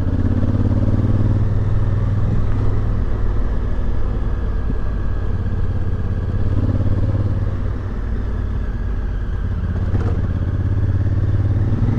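Motorcycle engine running steadily while riding, dropping a little in level for a moment about eight seconds in.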